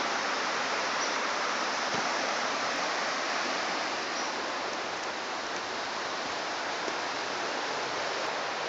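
Running water of a stream, a steady even noise with no change.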